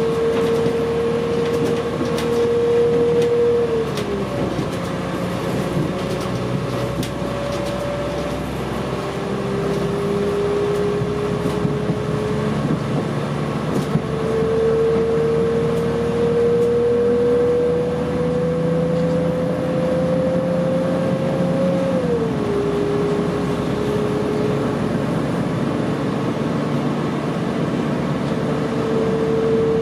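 Interior running noise of a Class 4000 diesel multiple unit under way: a steady rumble under a drive whine that climbs slowly in pitch and drops abruptly, about four seconds in and again after about twenty seconds, as the transmission shifts gear.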